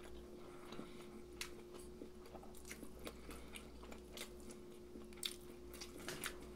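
Close-up chewing with faint, scattered crunches of crispy fried chicken being eaten.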